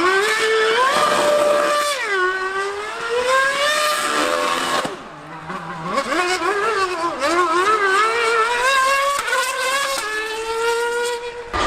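High-revving racing engines from the 2013 V8 Formula One car and the Yamaha R1M superbike at full throttle. The pitch climbs, drops sharply around two seconds in and climbs again, dips in loudness briefly about five seconds in, then rises and wavers again through gear changes.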